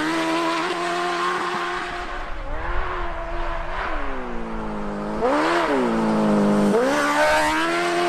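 Motorcycle engine running and being revved, its pitch falling and rising several times, lowest about four seconds in and climbing again about five and a half seconds in.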